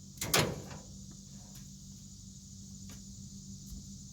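A sharp clack with a short ring about a third of a second in, then a few faint ticks. They come from hand-working the stuck heater bypass valve and its lever on a 1973 Dodge D100.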